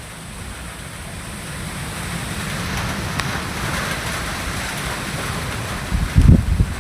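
Rain during a thunderstorm, a steady hiss that swells louder in the middle. Near the end, wind buffets the microphone with a few low thumps.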